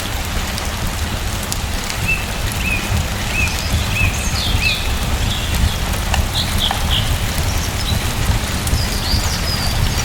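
Steady rain falling, a dense even hiss with a low rumble underneath. Birds chirp through it in short repeated calls, a run of about five from about two seconds in, and more a little later and near the end.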